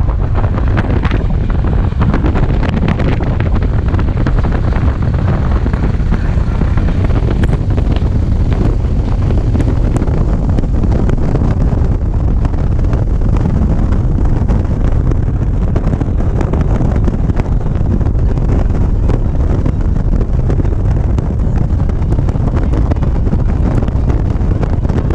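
Steady wind buffeting on the microphone of a camera on a moving motorcycle, with the motorcycle's engine and road noise underneath.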